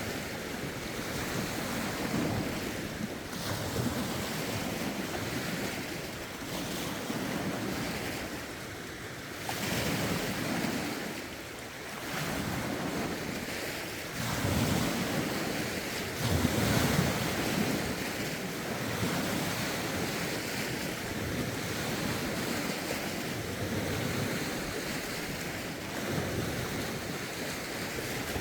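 Lake waves lapping and washing ashore in irregular surges, with wind buffeting the microphone.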